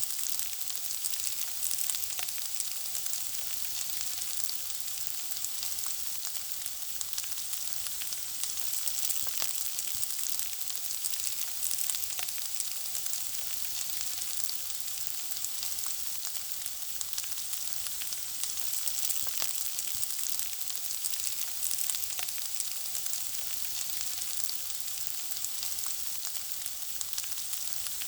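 Food frying in hot oil: a steady high sizzle with constant small crackles and pops.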